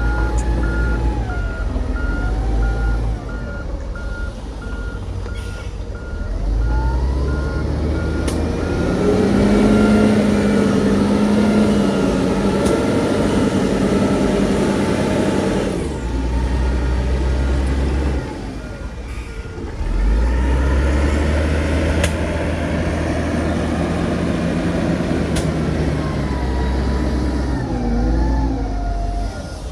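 Heavy diesel machinery working: a diesel engine revs up under load twice and eases off in between. A reversing alarm beeps steadily through the first third and again for most of the second half.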